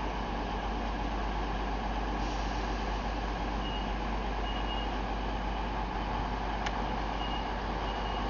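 A train standing at a station platform gives a steady running hum and rumble. Two pairs of short, high beeps sound over it, and there is one sharp click about two-thirds of the way through.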